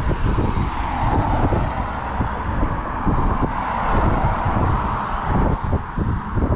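Road traffic passing on a bridge, a steady rush of tyres that swells in the middle, with wind buffeting the microphone.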